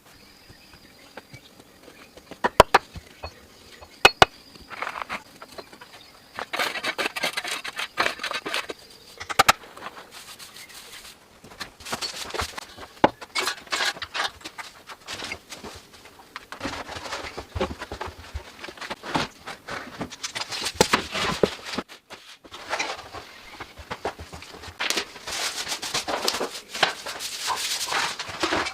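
Hand work with wood and branches: two sharp knocks, then repeated spells of rough scraping and rustling, each a few seconds long. A faint thin high tone runs through the first part.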